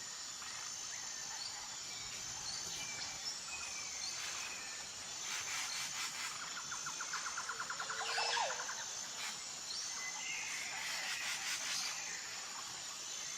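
Tropical forest ambience: a steady high insect drone under scattered bird chirps and whistles, with a rapid pulsed trill about halfway through.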